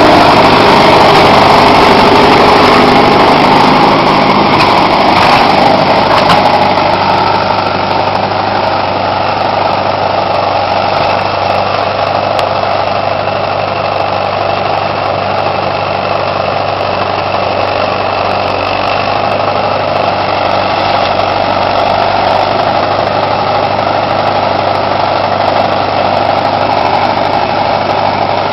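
Tractor engine running at idle, a steady, even drone that eases off slightly about six seconds in and then holds.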